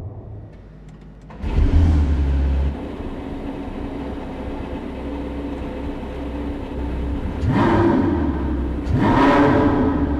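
Porsche 918 Spyder's V8 engine coming on load abruptly about a second and a half in and pulling hard. The engine rises in pitch twice near the end as the car accelerates.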